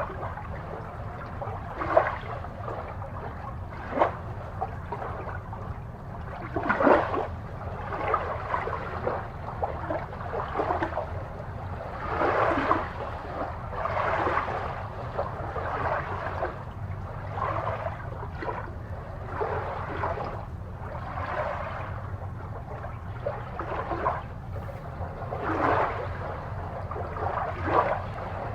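Aquarium water bubbling and gurgling in irregular surges, over a steady low hum.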